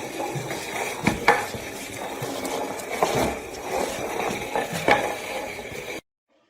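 Irregular clattering and scraping with a few sharp clicks, like household objects or dishes being knocked about, which stops dead near the end.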